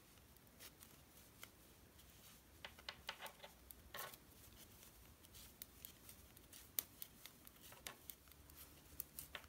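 Faint, irregular clicks and light rustling of two knitting needles and yarn as a row of knit stitches is worked.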